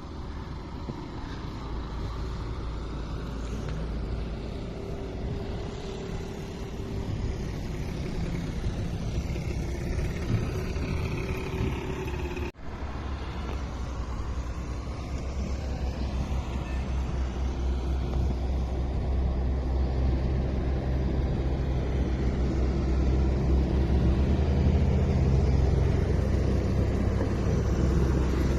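A car driving: steady road and engine rumble that grows louder in the second half and cuts out for an instant about halfway through.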